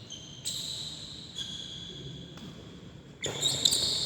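Several high-pitched squeaks of court shoes on a badminton court floor. A louder rush of noise comes in near the end.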